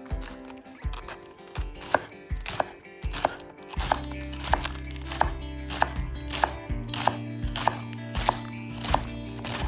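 Kitchen knife chopping on a cutting board in a steady rhythm, about three cuts a second, starting about a second in.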